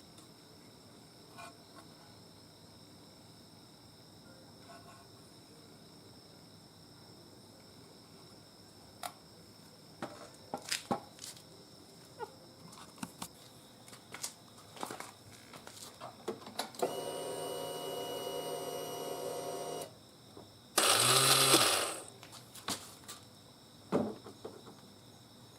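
Scattered clicks and clatters of hands and tools at work, then a steady whirring motor for about three seconds and a loud hissing burst about a second long; crickets chirp steadily throughout.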